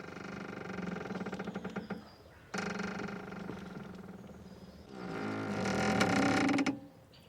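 A boat's rope squeaking under strain, three long creaking squeals one after another, the last the loudest.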